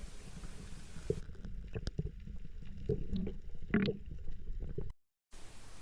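Muffled underwater sound on an action camera: low rumbling and gurgling water with scattered clicks and small squeaks. It drops out briefly near the end.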